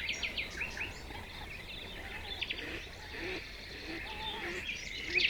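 Nightingale singing: rapid phrases of short whistled notes sliding up and down, busiest in the first second and again near the end, with a sparser stretch in the middle and some softer, lower warbled notes underneath.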